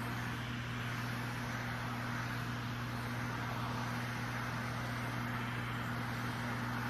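Battery-powered neck fan running, a steady whir with a low motor hum and no change in speed.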